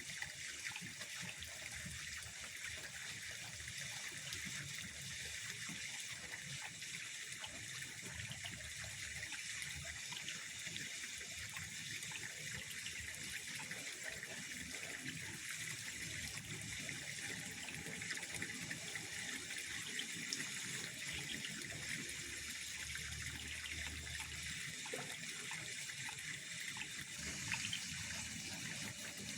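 Steady trickling of pond water: an even, unbroken sound with no distinct events.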